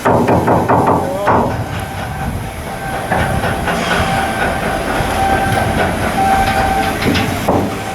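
Metalwork noise during ship fitting-out: a quick run of metal clanks and knocks, then steady machinery running with a continuous whine, and another knock near the end.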